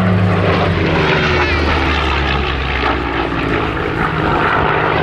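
Spitfire's piston engine on a display pass, running steadily, its pitch falling about a second in as it goes by.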